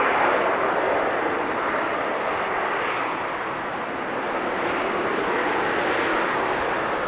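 Jet engine noise from a Boeing P-8 Poseidon's twin CFM56 turbofans, a loud steady rush that is strongest at the start, eases a little, then swells again about five seconds in.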